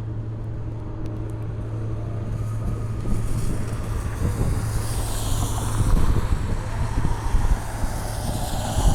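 Boeing 777 jet engines running as the airliner taxis, a high hiss and faint whine swelling and easing off over a steady low hum.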